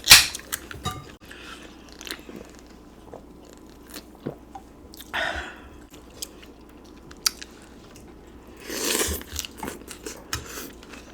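Close-up eating sounds of a person eating pozole: chewing with scattered small clicks. There is a sharp knock at the start, a short mouth noise about five seconds in and a longer noisy stretch about nine seconds in.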